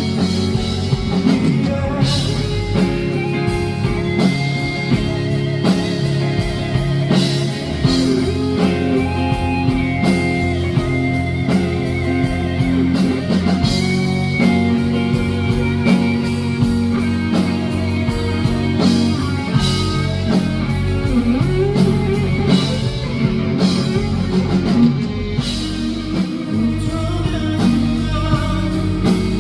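Live rock band music: guitar and drum kit playing an instrumental passage of the song between sung lines.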